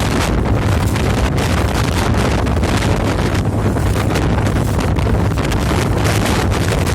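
Strong wind buffeting the microphone in constant gusts, over the steady low drone of a boat's engine.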